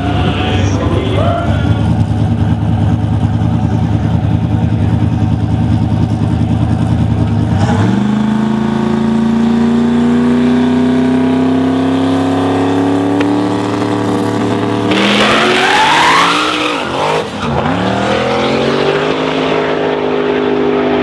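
Turbocharged 427 LSX V8 of a 2004 Chevy Silverado drag truck, running steadily, then about eight seconds in pulling hard with its pitch rising slowly for several seconds. A louder rush with quickly rising engine pitch follows near the two-thirds mark.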